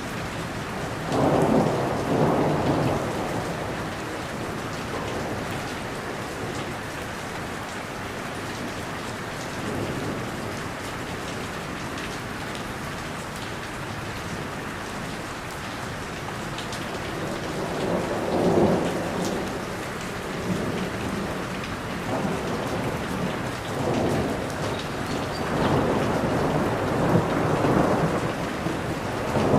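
Steady heavy rain with rolls of thunder: a rumble about a second in, another around two-thirds through, and several more in close succession near the end.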